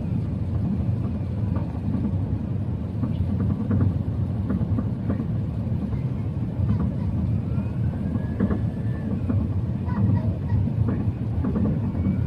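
Steady low rumble of an Airbus A380-800 heard from inside the cabin on final approach, with light scattered clicks and rattles.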